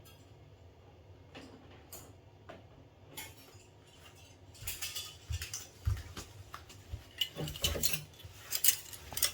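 Light metal clinking and rattling from handling the torn, shot-up can and its target fixing. Faint scattered clicks at first, then about four and a half seconds in, a busy run of sharp clinks and rattles.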